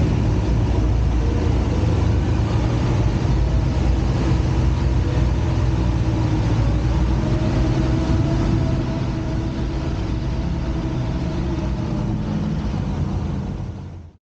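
Vehicle engine running steadily with a low drone, slightly quieter from about nine seconds in, cutting off suddenly near the end.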